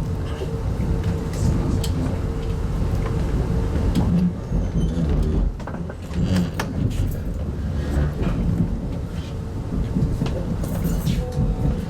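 Inside an RZ25T passenger coach of a moving train: a steady low rumble of wheels on track, with a constant hum and scattered sharp clicks and knocks from the running gear and carriage.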